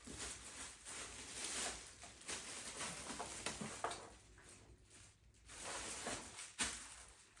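Rustling and light knocks of a robot vacuum and its packaging being handled, with a sharper click near the end.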